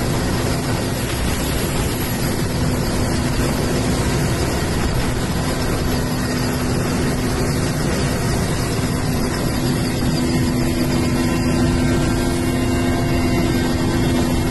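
A helicopter running: a steady, loud engine and rotor noise with a constant low hum.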